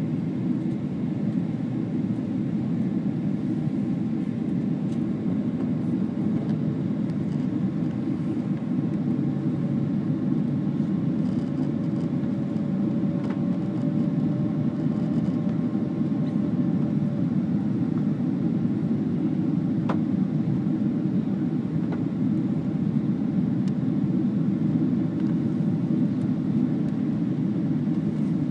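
Steady cabin noise inside a jet airliner in flight: an even low drone of engines and airflow, with a faint thin tone in the middle.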